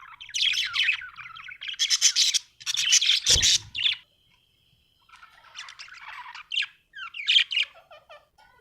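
Budgerigar chirping and chattering in quick runs of high notes, pausing for about a second midway before starting again. A single short knock sounds about three seconds in.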